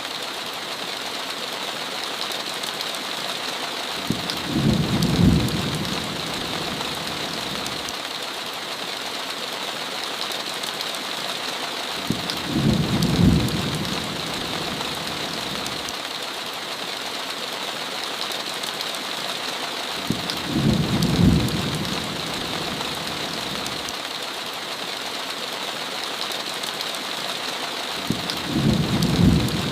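Heavy rain with a steady hiss, with a low thunder rumble about every eight seconds, four times, each lasting about two seconds.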